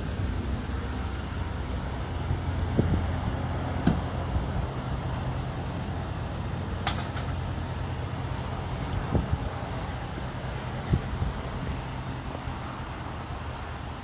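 A motor vehicle engine idling steadily, with a few scattered knocks and clicks.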